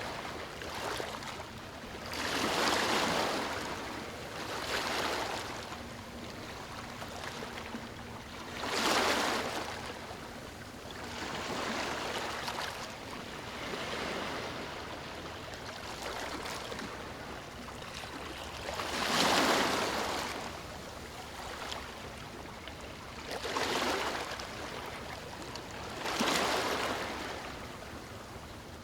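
Ocean waves breaking and washing up a beach, a rushing surge every few seconds over a constant background wash; the largest surges come about nine and about nineteen seconds in.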